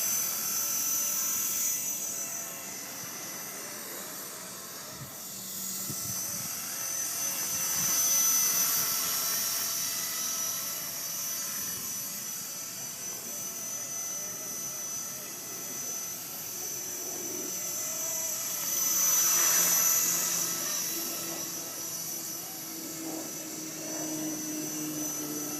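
Electric Blade SR RC helicopter flying, a steady high-pitched motor and rotor whine that swells louder twice, about eight seconds in and again around twenty seconds in.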